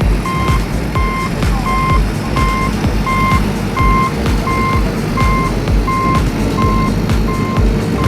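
A toy mini JCB's electronic reversing beeper sounding a steady single-tone beep about every three-quarters of a second, over the low running noise of the toy's motor and movement.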